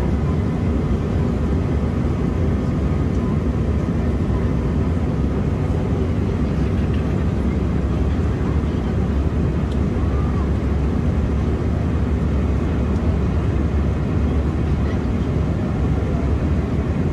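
Steady cabin noise inside an Embraer E175 jet airliner in flight: an even, low roar of the engines and airflow, with no change through the stretch.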